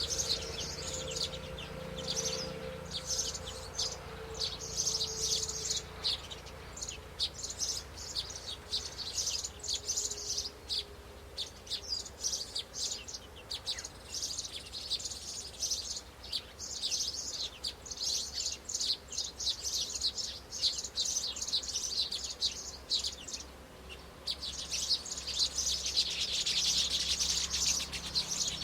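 Birds chirping in quick, dense high-pitched runs, with short lulls between runs and busiest near the end.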